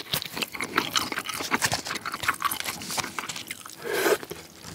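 Close-miked chewing of soft king crab claw meat: wet, smacking mouth sounds with many small clicks, and one louder, longer mouth noise about four seconds in.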